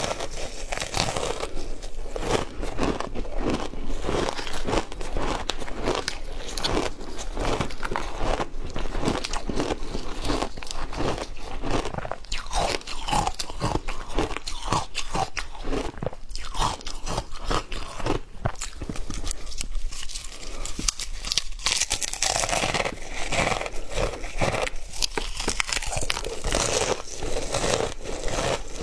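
Frozen matcha ice being bitten and chewed: dense, continuous crunching.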